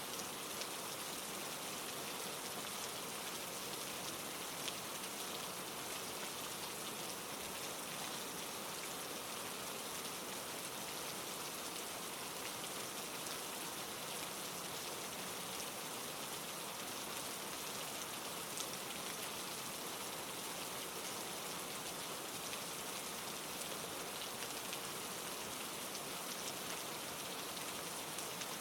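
Steady rainfall pattering on a surface, an even hiss of rain with occasional individual drop ticks.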